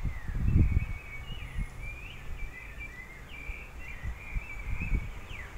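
A songbird singing a continuous run of quick chirps and warbled whistles. Under it are low rumbles, loudest about half a second in and again near the end.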